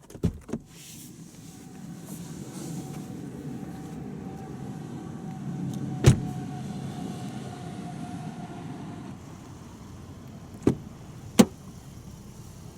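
An electric motor in the car runs for several seconds with a faint steady whine, starting and ending with clicks, with a sharp thump about six seconds in.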